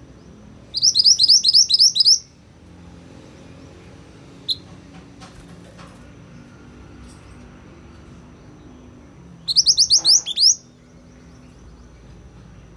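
A caged mantenan kuning songbird sings two bursts of rapid, high, rising chirps, each about eight notes. The first comes about a second in and the second near the end, with a single short chirp between them.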